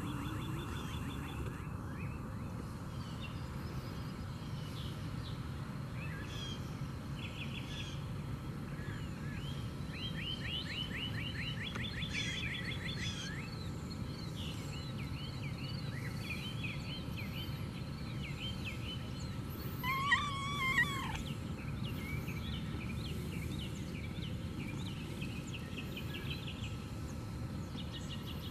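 Outdoor ambience: songbirds singing repeated trills and chirps over a steady low rumble. A louder, short two-part call stands out about twenty seconds in.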